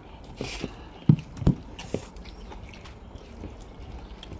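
People eating with their hands close to the microphone: chewing and wet mouth sounds, with two sharp knocks a little over a second in.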